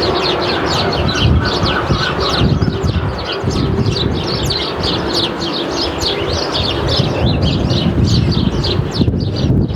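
A flock of house sparrows chirping without a break, many short overlapping chirps at once, over a steady low rumble.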